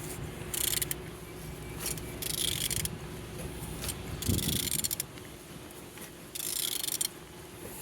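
A ratchet wrench clicks in four short runs as a used car engine is turned over by hand at the crankshaft, with quieter mechanical turning sounds between the runs. The engine turns freely.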